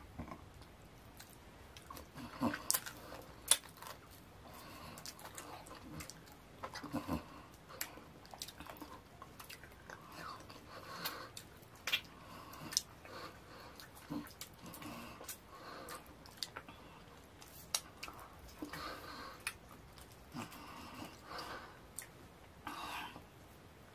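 Close-miked eating of fufu with ogbono soup by hand: wet, sticky chewing and mouth smacks, with sharp irregular clicks.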